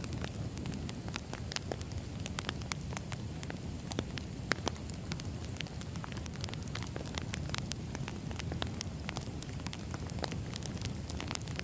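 Wood fire crackling: irregular snaps and pops of burning logs over a steady low rumble of the flames.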